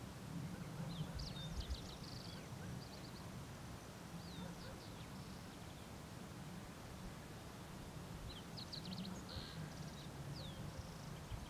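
A small songbird singing two short phrases of quick high chirps and slurred notes, one about a second in and another near the end, over a low steady rumble.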